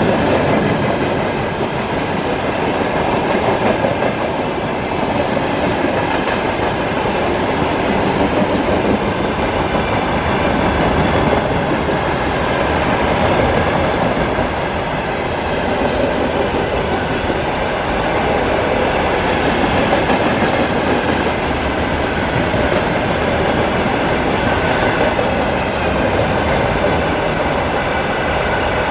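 Freight train wagons rolling past at steady speed: a continuous loud rumble of wheels on rail with clattering over the rail joints.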